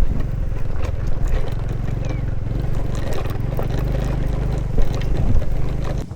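Motorcycle engine running at a steady pitch, with a slight shift in pitch past the middle. It drops away abruptly near the end.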